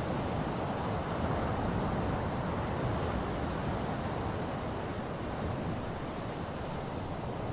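Ocean surf: a steady rushing wash of waves without distinct separate breaks.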